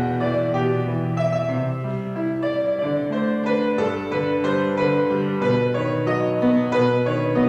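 Piano music: a melody over held chords, notes changing about every half second.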